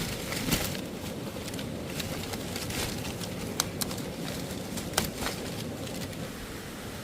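A few short, sharp knocks or clicks, about half a second in, twice in quick succession near the middle and again about five seconds in, over a steady background hiss.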